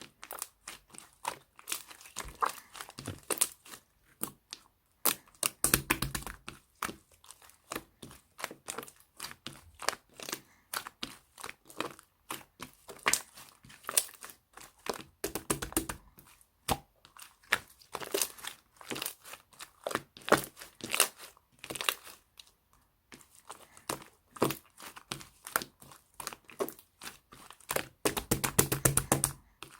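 Slime being squished and stretched by hand, giving a constant run of irregular crackling clicks and pops, with denser, louder spells of crackling now and then.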